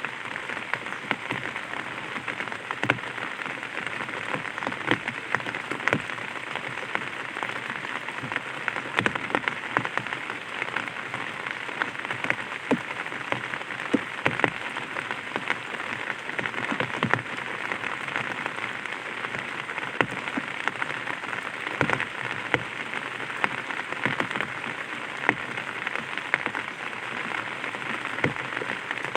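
Light rain pattering on an umbrella: a steady hiss with many separate, sharp drop ticks scattered through it.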